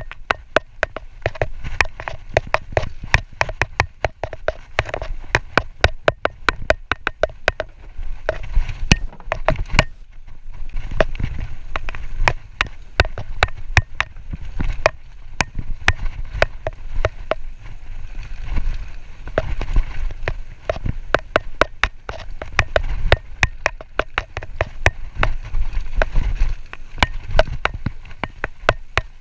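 A mountain bike rattling over rough trail: a dense run of irregular sharp clicks and knocks from the chain and frame, over a low rumble of tyres and wind.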